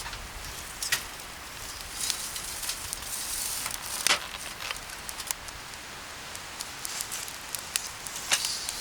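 Wood campfire crackling over a steady hiss, with sharp pops scattered through it; the loudest pops come about four seconds in and again near the end.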